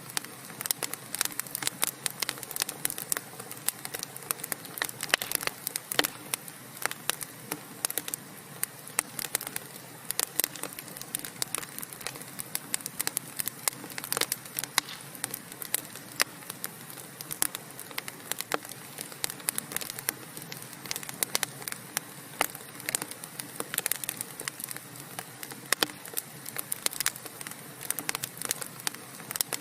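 Wood fire burning in a fireplace: a steady soft hiss under dense, irregular crackles and pops from the burning logs.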